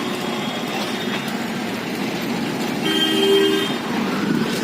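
Street traffic noise with a vehicle horn sounding once for about a second, about three seconds in.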